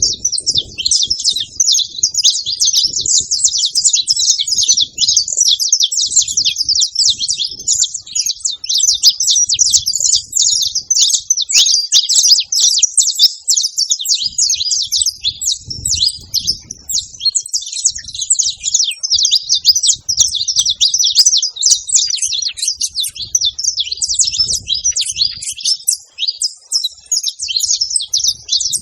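Saffron finches chirping and chattering at a feeding spot: a dense, continuous stream of short, high overlapping chirps from several birds.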